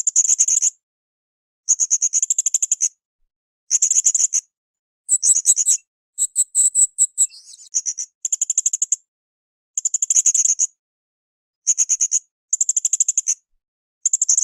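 Blue-crowned hanging parrot (srindit) calling: short bursts of rapid, shrill, high-pitched twittering notes repeated about once a second, with a more varied twitter in the middle.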